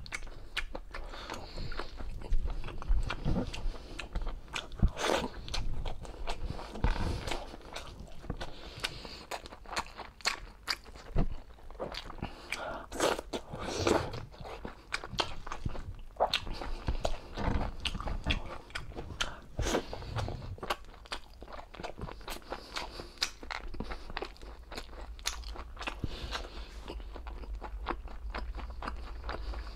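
Close-miked eating sounds: a person chewing soft braised pork belly and rice, with irregular wet smacks and clicks of the mouth.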